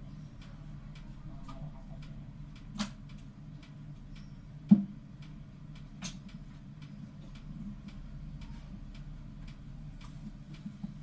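Light ticking and small clicks over a steady low hum, with a sharper click a little before five seconds in.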